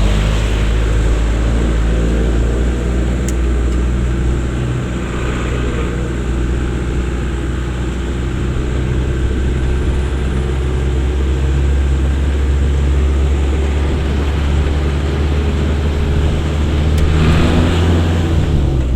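A vehicle's engine running at low speed along a rough, muddy road, its pitch shifting up and down over a steady low rumble.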